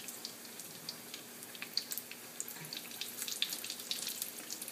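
Johnny cakes frying in hot oil in a skillet: a steady sizzle dotted with many small, irregular crackles and pops.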